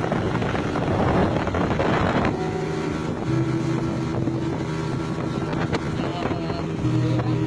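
Boat engine running with a steady hum, under a loud rush of wind and water noise for the first two seconds or so.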